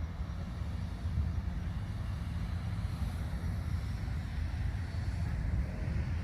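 Steady low rumbling noise, with no distinct events.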